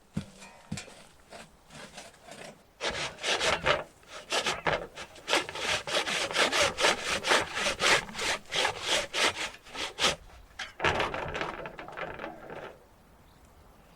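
Hand saw cutting through a log of old bog oak, with strokes about two or three a second. The sawing pauses briefly about ten seconds in, then a last run of strokes follows.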